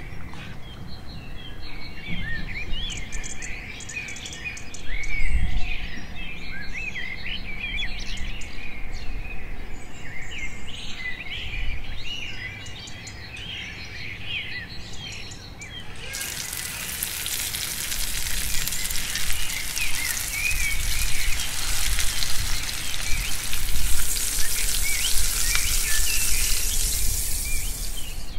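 Small birds chirping and twittering throughout. From a little past halfway, a loud, steady sizzle of chicken frying in hot oil in a grill pan joins in.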